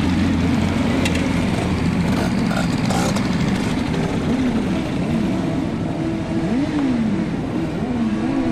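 Suzuki Intruder 250's V-twin engine running under way, its note rising and falling several times, with other motorcycles running close by.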